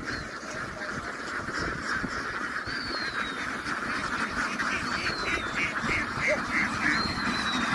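A large flock of ducks quacking in a dense chatter that grows slowly louder. A thin, high, falling whistle sounds three times, about two seconds apart.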